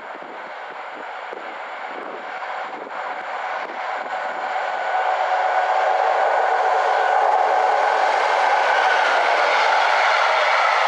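Train approaching on the main line, growing louder over the first five seconds, then a steady rush of wheels on rails as it passes close by, with a few clicks of wheels over rail joints early on.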